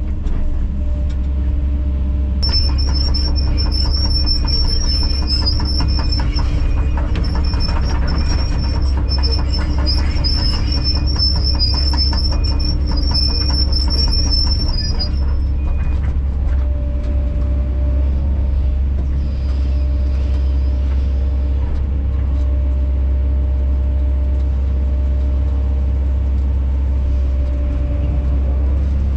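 Kobelco SK210 excavator's diesel engine running steadily under load. From about two seconds in, a high-pitched squeal or whine with rattling clatter joins it, breaks off briefly, then stops about halfway through.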